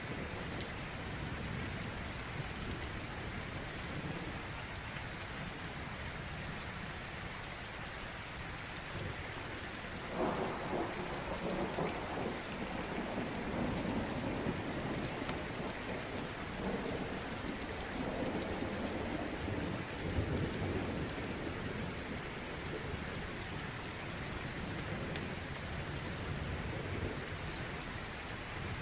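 Steady rain falling, with a long roll of thunder that sets in about ten seconds in and rumbles for roughly ten seconds before fading back into the rain.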